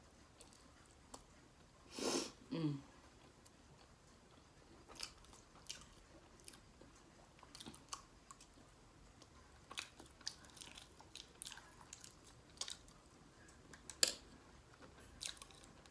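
Close-miked mouth sounds of a person eating: chewing with scattered short wet clicks and smacks, and a louder burst about two seconds in.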